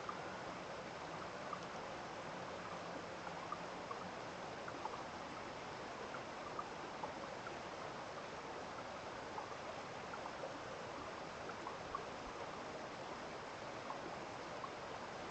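Running water of a small stream: a steady rush with many short, scattered plinks of water throughout.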